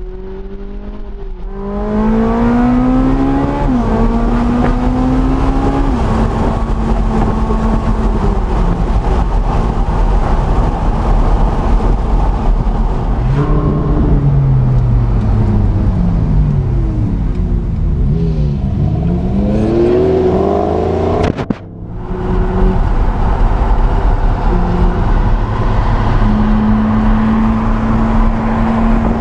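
Ferrari 458 Italia's naturally aspirated V8 heard from inside the cabin, pulling up through the gears with its pitch climbing and stepping down at each shift, then falling away through downshifts and pulling hard again before settling to a steady cruise. The sound drops out briefly about three-quarters of the way through.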